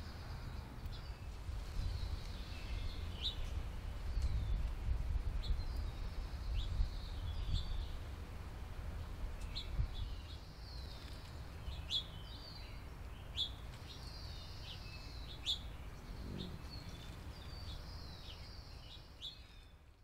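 Small songbirds chirping and calling over and over, short high notes and quick runs of notes, over a steady low background rumble. The sound fades out at the end.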